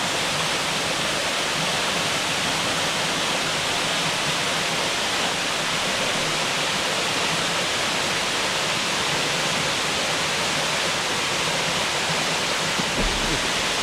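Waterfall in a mountain canyon: water pouring down in a loud, steady rush that does not let up.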